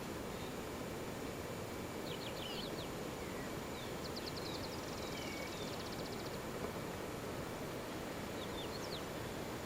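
Wild birds calling over a steady background rush: a few short high chirps about two seconds in, a fast rattling trill a little before the middle, and a couple more chirps near the end.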